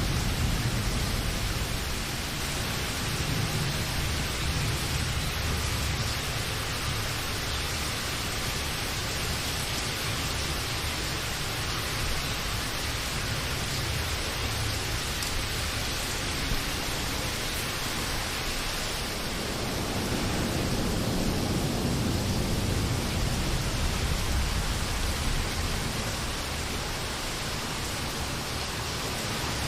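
Steady rain hissing evenly, with a low rumble of distant thunder near the start that swells again about two-thirds of the way through.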